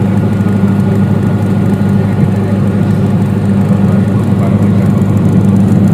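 30 kVA generator set's engine running steadily at its 1500 rpm governed speed, a constant loud hum.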